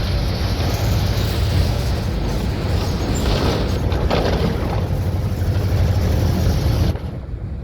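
Diesel engine of a VW 17-230 OD city bus running under way, a steady low rumble with road and wind noise. Near the end the sound drops suddenly and the hiss falls away.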